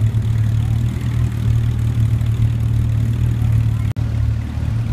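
Vintage sports car engine idling steadily, a low even hum. The sound cuts out for an instant about four seconds in.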